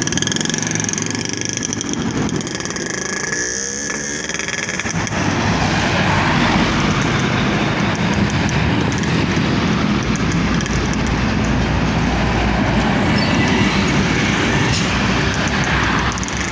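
Yamaha RX-King single-cylinder two-stroke engine running through a re-drilled (bobok) exhaust, getting louder and fuller from about five seconds in.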